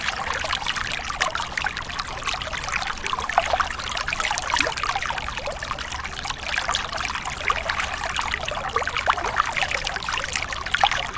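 Water pouring and splashing in a steady stream from a small DIY mini water pump's outlet.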